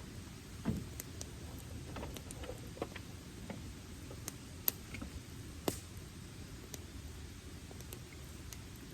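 Wood campfire crackling: irregular sharp pops and snaps, a few of them louder, over a low steady rush.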